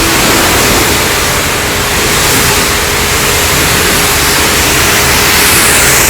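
Pressure washer spraying water at a car: a loud, steady hiss, with a thin steady tone joining about a second in.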